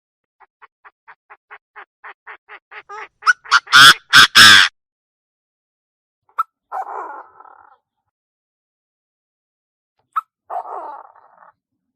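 Chinese francolin calling: a run of short notes that speed up and grow louder for about three seconds, ending in three very loud harsh calls, then two shorter rasping calls later on.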